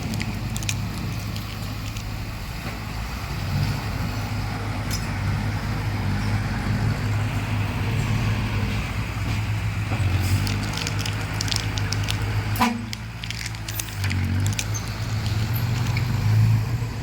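Diesel crawler bulldozer running steadily at work, a low engine hum under scattered clicks and clanks, the sharpest about two-thirds of the way through.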